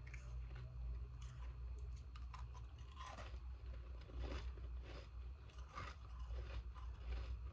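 Freezer ice being bitten and chewed close to the microphone: irregular crisp crunches, a few louder ones in the middle, over a steady low hum.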